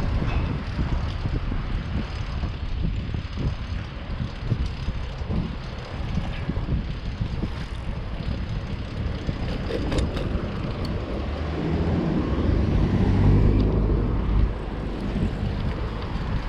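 Wind rumbling on the microphone of a moving bicycle, with city traffic around; about twelve seconds in, a motor vehicle grows louder and passes close for a couple of seconds, with a few sharp clicks a little before it.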